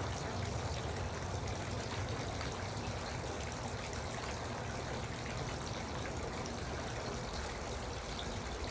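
Garden water fountain, water trickling and splashing steadily.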